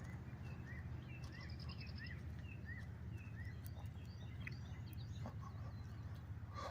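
A bird singing a run of short repeated chirps, about two a second, with a brief fast trill about a second in, over a steady low hum.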